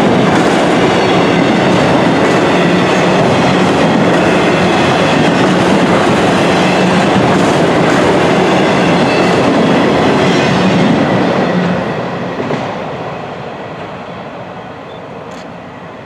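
Train passing close by at trackside, its wheels clattering on the rails, loud and steady, then fading over the last few seconds as it moves away.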